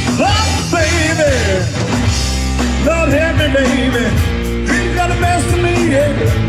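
A live rock band playing: electric guitar, bass and drums, with a melody line bending up and down in pitch in three phrases over the steady bass.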